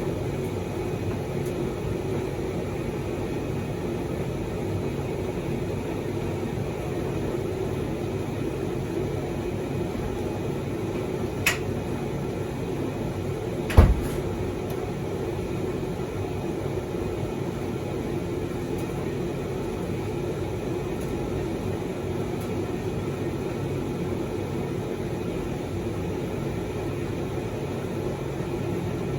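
Proline TDV60 vented tumble dryer running steadily, its motor and drum turning on a freshly fitted drive belt with a load of dust sheets tumbling inside. The hum stays even throughout. A light knock comes about eleven seconds in, and a louder, deeper knock a couple of seconds later.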